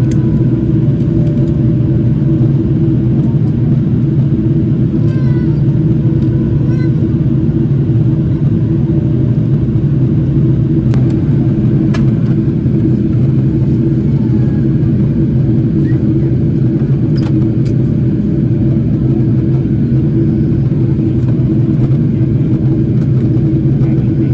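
Steady, even drone of engine and air noise heard inside the cabin of a Boeing 777-300ER airliner, whose GE90 turbofan engines hum low and unchanging, with faint voices in the background.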